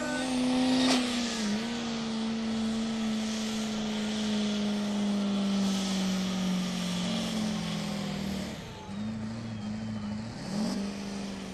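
Modified turbo-diesel pickup engine held at high revs under full load during a sled pull, its pitch slowly sinking as the load builds. It drops off about eight and a half seconds in, with a short rev again near the end.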